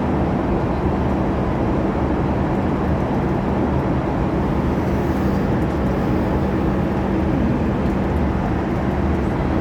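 Steady drone of an airliner cabin in flight: engine and rushing air noise with a low, even hum.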